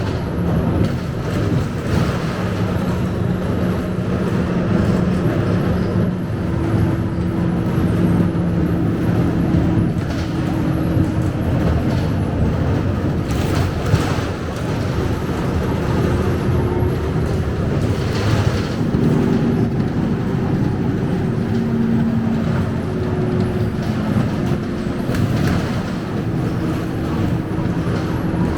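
Cabin noise inside a Scania K270UB city bus on the move: its five-cylinder diesel engine runs under road rumble, and the engine's pitch shifts a few times as it changes speed.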